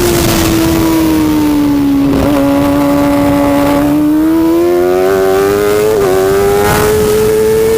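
Racing motorcycle engine running hard at high revs. Its pitch sags over the first couple of seconds, then climbs steadily toward the end, with brief hitches about two seconds in and again near six seconds.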